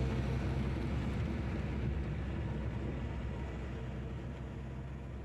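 Steady low engine hum, slowly fading.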